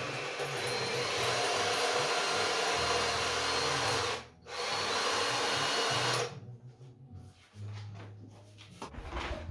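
A power tool running with a steady, full-range whirr. It cuts out briefly about four seconds in, starts again, then stops about six seconds in.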